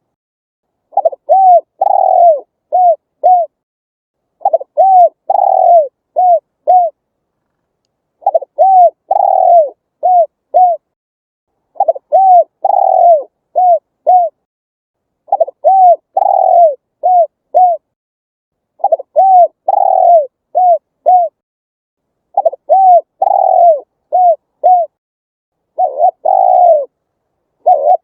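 Spotted dove cooing: a phrase of about five coos, a longer one near the start and short ones to finish, repeated about every three and a half seconds with clean silence between.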